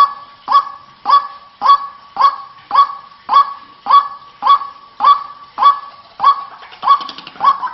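White-breasted waterhen (ruak-ruak) calling: one short, honking 'kwak' note repeated evenly, a little under twice a second. This is a lure-call recording of the bird.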